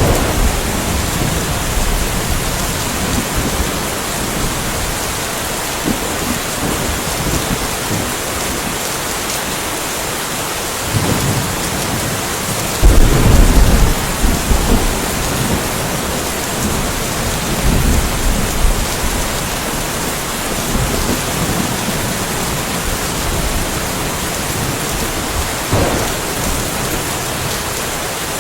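Steady rain falling in a thunderstorm, with rolling thunder. The loudest rumble comes about halfway through and lasts a couple of seconds, and a few fainter rumbles come before and after it.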